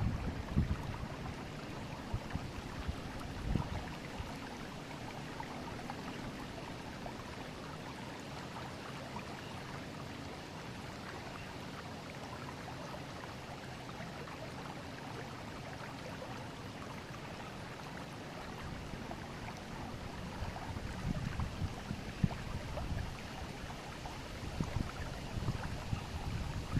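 River water flowing steadily, an even rushing hiss. Low wind buffeting on the microphone rumbles in briefly a few seconds in and again through the last third.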